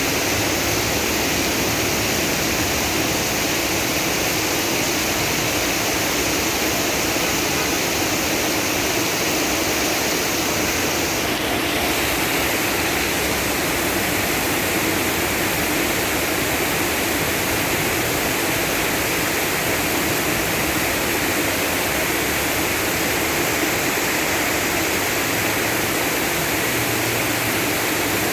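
Heavy downpour: a steady rush of rain falling and rainwater running.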